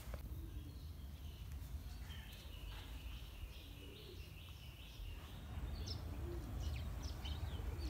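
Small birds chirping, faint: a high call repeated evenly for a few seconds, then quick rising chirps in the second half, over a steady low rumble.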